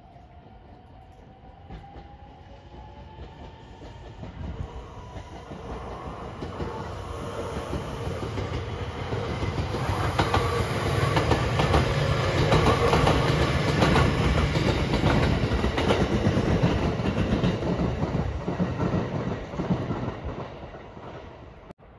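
JR West 227 series 'Urara' electric train passing: a whine rising in pitch as it approaches, then wheels clacking over the rail joints as it goes by, loudest in the middle, fading as it leaves before cutting off suddenly near the end.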